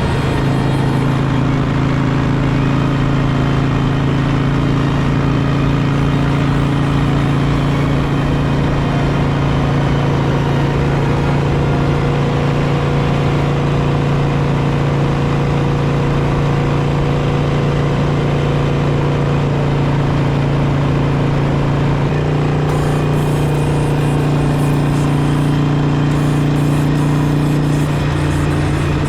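Harley-Davidson Sportster V-twin engine running steadily, its note shifting slightly about 22 seconds in.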